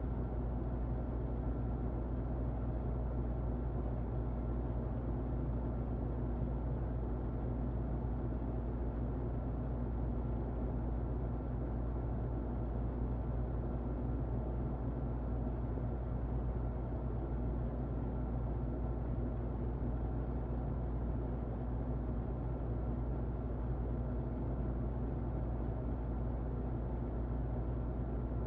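Muffled electric fan running steadily: an even, low-heavy whoosh with a faint constant hum in it.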